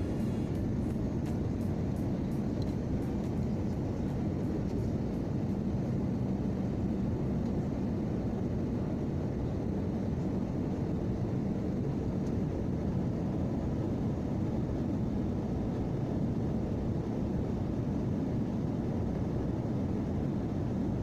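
Airplane engines and airflow making a steady, even drone during the climb after takeoff, with the sound mostly low-pitched and a faint steady hum.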